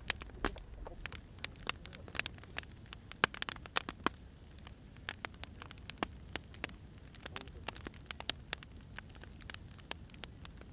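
Wood fire crackling: irregular sharp pops and snaps from burning firewood, several a second, over a low steady rumble of the flames.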